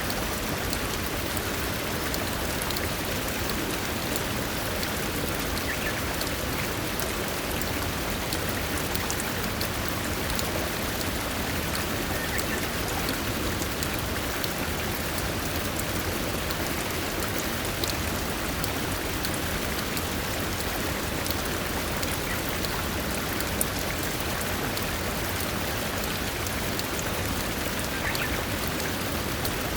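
Steady rushing water, an even wash with many small drops ticking through it.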